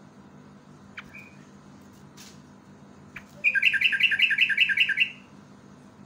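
Yellow-vented bulbul giving a fast chattering run of about a dozen quick, evenly spaced notes, lasting about a second and a half and starting about three and a half seconds in. A few faint clicks and short chips come before it.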